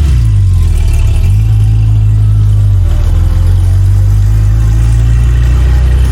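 Car engine running, a steady low rumble that shifts in pitch about a second in and again around the middle.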